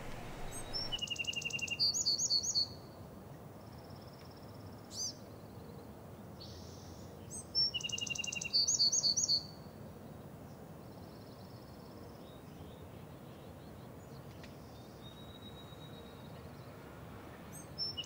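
A songbird singing the same short song three times, each a quick run of high notes with a lower trill, and a few faint single whistled calls in between.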